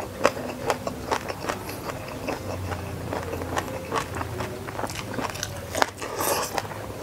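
Close-miked eating sounds of a person chewing a mouthful: wet clicks and smacks several times a second, with a crisper bite about six seconds in as more food goes into the mouth.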